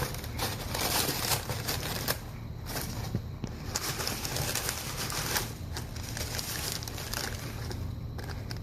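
Thin tissue paper rustling and crinkling in irregular spurts as it is handled and pressed down onto glued paper flaps.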